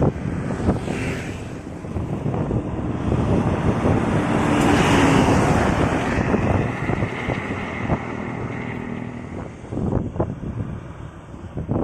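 A road vehicle passing close by, its noise swelling to a peak about halfway and then fading, with wind buffeting the microphone throughout.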